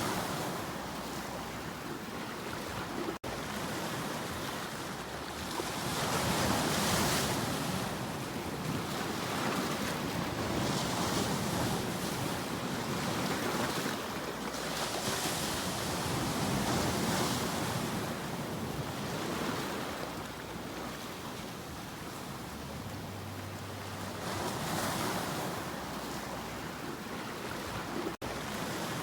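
Sea waves breaking and washing in, the surf swelling and easing every few seconds. The sound cuts out for an instant twice.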